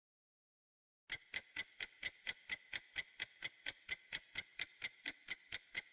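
Clock-style ticking, a sound effect used as a quiz countdown timer. It starts about a second in and goes evenly at about four ticks a second.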